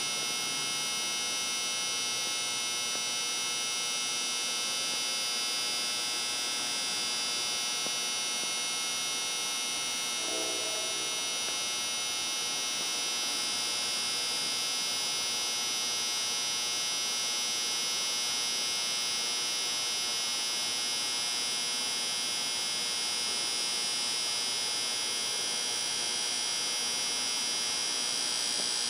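A continuous electrical buzz, high-pitched and unchanging, with many overtones, that runs on without a break.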